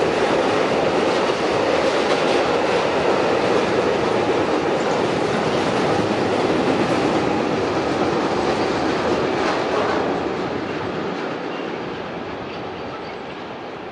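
A train passing close by: a loud, steady noise of wheels running on the rails, which fades away over the last few seconds as the train moves off.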